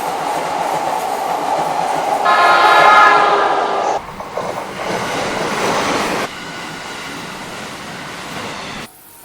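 Train running by with a steady rush of noise, its horn sounding once for under two seconds about two seconds in. The sound changes abruptly a few times, as between separate train recordings.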